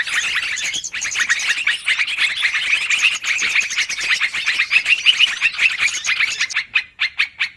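Busy, noisy chattering of yellow-vented bulbuls (trucukan): many rapid overlapping chirps, a bird-trapping lure call. In the last second the chatter breaks up into separate short notes with gaps between them.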